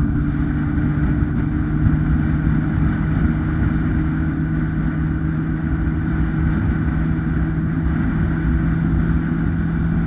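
2008 Kawasaki ZX-10R's 998cc inline-four engine running at a steady, nearly constant pitch while cruising, over a steady rush of noise.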